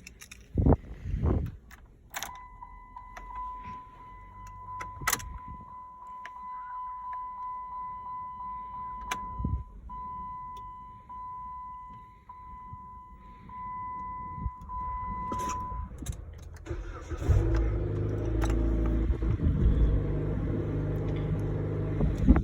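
Keys clicking in the ignition, then a steady electronic warning chime tone from the dashboard for about fourteen seconds. Near the end the 2007 Jeep Compass's 2.4-litre four-cylinder engine is cranked, fires right up and runs at a fast idle.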